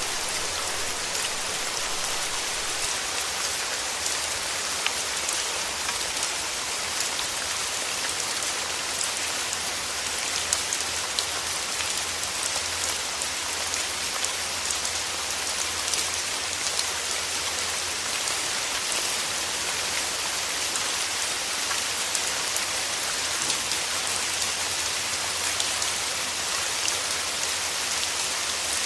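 Steady rain falling, a continuous hiss of many fine drop ticks on a hard surface.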